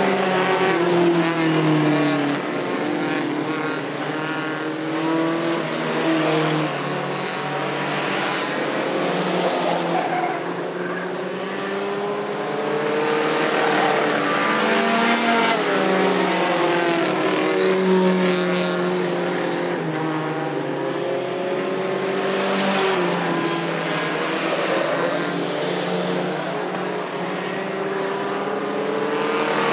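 Several mini trucks' engines racing together around an oval, their overlapping pitches rising and falling as the trucks accelerate down the straights and ease off into the turns.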